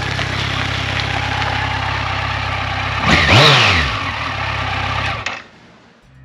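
Kawasaki Versys 1000 LT's inline-four engine running at a steady speed under riding wind noise, with one brief rise and fall in engine pitch about three seconds in, the loudest moment. The sound fades out sharply about five seconds in.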